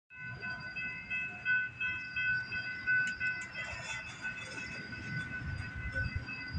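Stopped train at a railroad crossing: a steady high-pitched ringing of several tones, faintly pulsing, over a low rumble, as from the crossing's electronic warning bell.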